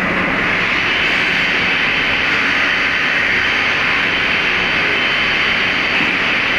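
CNC machine tool running, a loud, steady rushing noise with a faint high whine above it.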